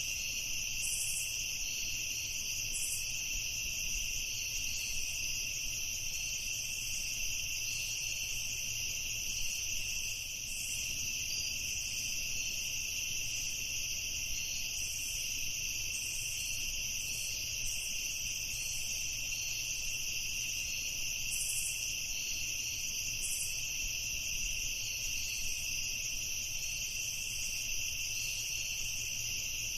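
Crickets chorusing in a steady, unbroken high trill, with short higher chirps every few seconds.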